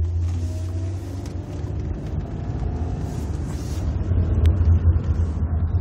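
A 2002 Nissan Maxima SE howling while driving: a steady low drone with faint whining tones above it, growing a little louder. The noise is loud and comes from the front right, and the owner thinks the timing is off, changed or loose, though it almost feels like a transmission issue.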